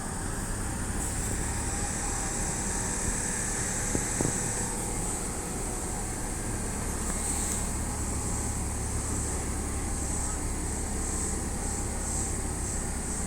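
Kintetsu electric commuter train running with a steady low rumble and a high hiss, with one short knock about four seconds in.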